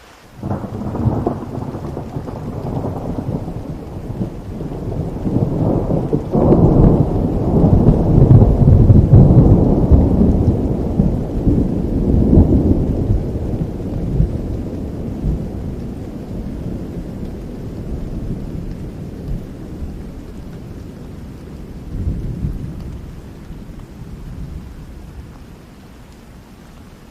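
A long roll of thunder over steady rain: it breaks in suddenly about half a second in, grows to its loudest rumble near the middle, swells once more later and rumbles away near the end.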